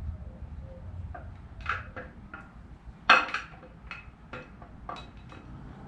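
Light metallic clinks and knocks as a camshaft is turned and eased into the engine block through its cam bearings, with one loud ringing clank about three seconds in.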